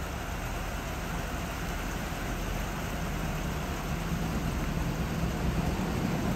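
Diesel multiple unit passenger train approaching and passing, a steady low engine hum and rail rumble that grows slowly louder as it draws near.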